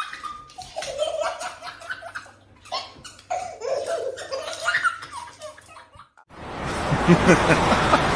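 A person laughing in broken, pitched bursts for about six seconds. Then an abrupt cut to a loud, even noise.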